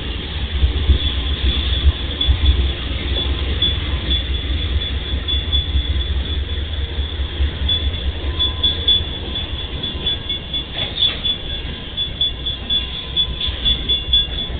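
Train rolling past at close range: a heavy, pulsing low rumble of wheels and cars, with a thin steady high-pitched tone above it and a few short metallic clanks in the second half.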